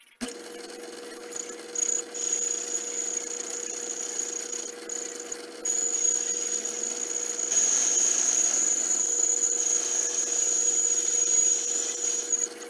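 Small machine tool's motor starting and running steadily, with a high whine that comes and goes and grows louder about halfway through, as metal is machined.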